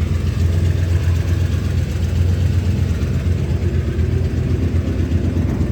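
A 1983 Oldsmobile 98's 307 small-block V8 idling steadily through a dual exhaust with an H-pipe and 2.5-inch Flowmaster FX mufflers: a deep, even rumble.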